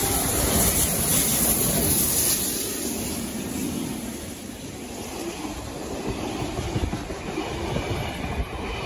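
Heritage steam-hauled train passing at speed: its water tank wagon and passenger carriages roll by with the wheels rumbling and clattering on the rails. It is louder in the first few seconds, eases off in the middle and builds again near the end.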